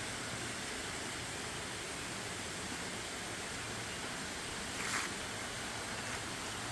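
Steady, even rushing noise with no distinct events, and one brief rustle about five seconds in.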